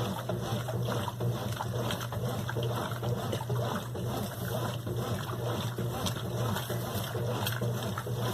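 Brastemp BWQ24 top-load washing machine running with water in the tub: a steady low hum with continuous splashing and sloshing of water.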